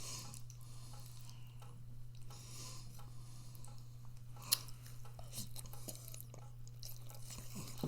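A person chewing food, with soft mouth noises, over a steady low hum. One sharp click about four and a half seconds in.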